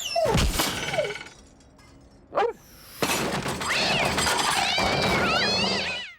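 Cartoon sound effects: a sudden shattering crash with falling whistles, a single sharp knock about two and a half seconds in, then a few seconds of high, wavering squeals over a noisy clatter.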